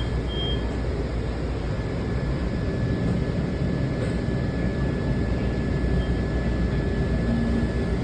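Steady low rumble of a metro rail station with a faint, steady high whine.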